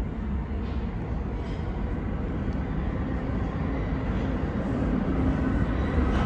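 New York City subway train approaching along the tunnel: a low rumble building steadily louder, with a faint hum of motor tones coming up toward the end.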